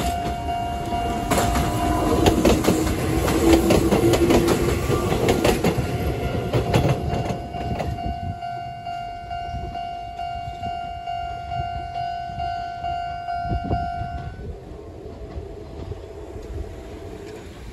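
Konan Railway electric train passing a level crossing, its wheels clacking over rail joints for several seconds before the sound fades away. The crossing's warning bell rings steadily throughout and stops about fourteen seconds in.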